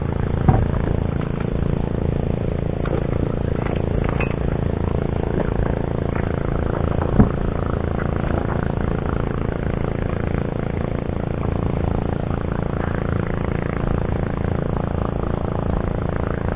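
A boat's engine running steadily at an even pitch, with a couple of short knocks, one about half a second in and one about seven seconds in.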